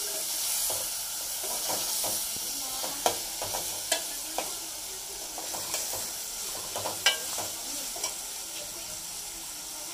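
Chopped onions and tomatoes frying in oil, sizzling steadily, while a metal spoon stirs them in a metal pot, clinking and scraping against the pot several times.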